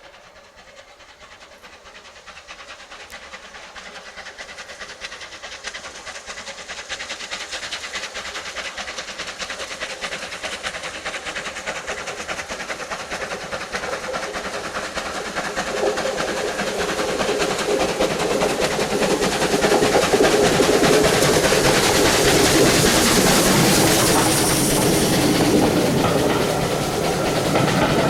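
Steam-hauled train approaching and running past on the rails, growing steadily louder for about twenty seconds and staying loud as the coaches go by.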